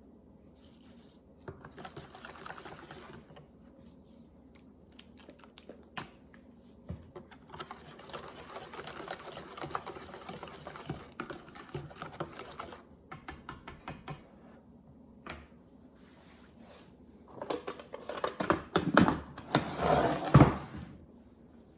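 Kitchen utensils working in bowls and pans: spells of rapid clicking, scraping and rattling, the loudest clatter near the end.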